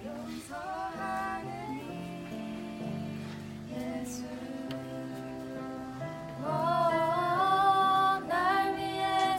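Female voices singing a slow Korean worship song over held instrumental accompaniment. The voices sing briefly near the start, drop back, then come in louder about six and a half seconds in.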